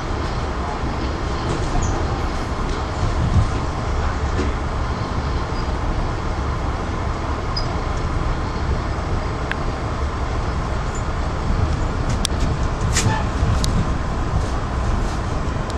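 Amtrak passenger train running, a steady low rumble with a few sharp clicks near the end.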